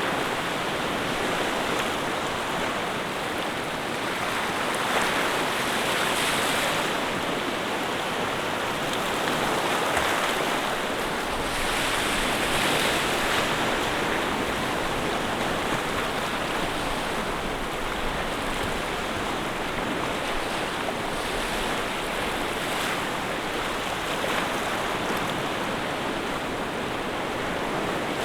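Water rushing steadily, a continuous noise that swells a little a couple of times.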